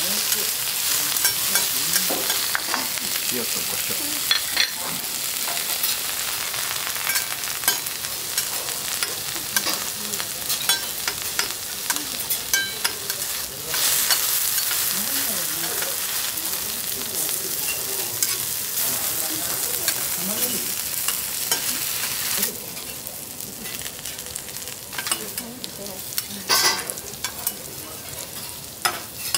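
Bok choy, onion slices and mushrooms sizzling on a hot steel teppanyaki griddle, with frequent sharp clicks and scrapes of a metal spatula and knife against the plate. The sizzle drops noticeably about three quarters of the way through, and a loud clatter of metal on the plate comes a few seconds later.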